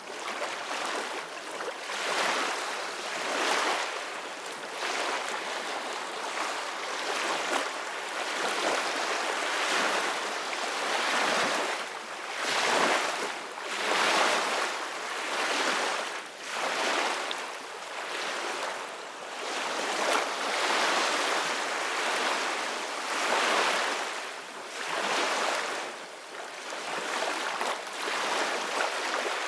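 Ocean surf: waves breaking and washing in, a continuous hiss that swells and falls back every few seconds.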